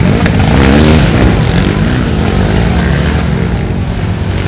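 Racing ATV engines revving hard, several at once, their pitch rising and falling in the first second or so and then running steadier as the sound eases slightly.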